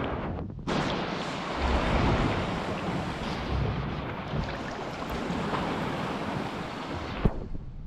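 Sea swell surging and washing, a long rush of water noise mixed with wind on the microphone, ending with a single sharp knock.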